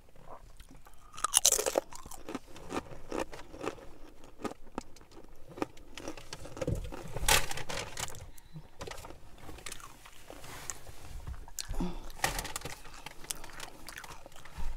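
A person chewing a mouthful of chorizo chicken burrito, with many irregular small clicks of the mouth. Two louder, sharp noises come about a second and a half in and again about seven seconds in.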